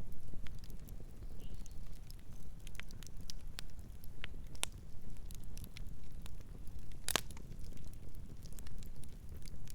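Campfire burning, with irregular sharp crackles and pops of burning wood over a steady low rumble of the flames. One louder crack comes about seven seconds in.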